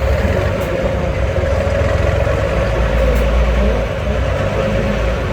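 Heavy off-road competition truck engine running steadily, a deep rumble with a steady mid-pitched drone over it.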